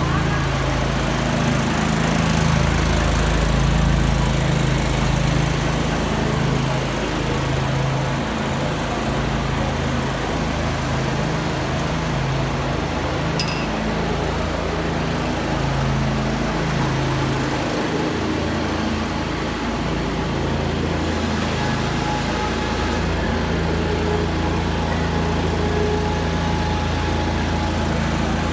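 A small engine running steadily, its low drone shifting a little in pitch now and then, with one brief click about halfway through.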